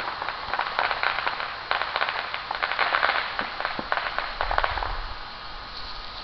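Fireworks crackling, a dense run of many rapid pops and crackles that thins out about five seconds in.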